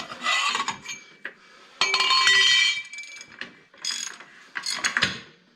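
Hand tools working on the steel parts of a tractor's grader blade: clicking and metal-on-metal clinks in several bursts. The longest and loudest burst, with a ringing metallic ring, comes about two seconds in.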